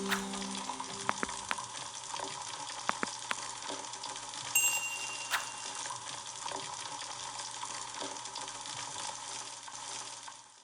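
Food sizzling in a pan, a steady hiss with scattered sharp clicks and a short high ring about halfway through, fading out at the end.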